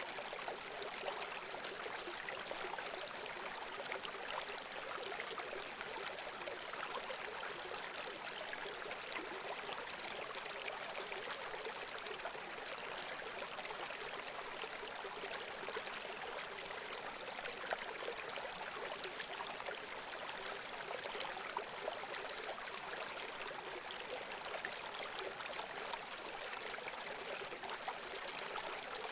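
Running water in a stream: a steady, even rush with many small splashes throughout.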